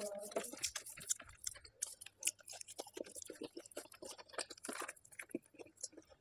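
Close-miked chewing of a mouthful of food: soft, irregular wet mouth clicks and smacks, several a second.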